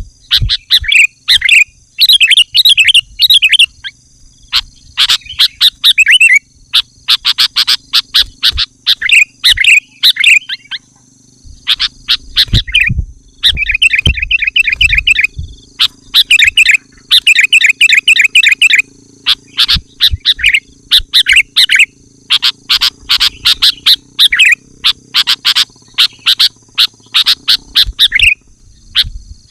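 Sooty-headed bulbul singing loud, rapid phrases of chattering notes over and over, with a short pause about eleven seconds in.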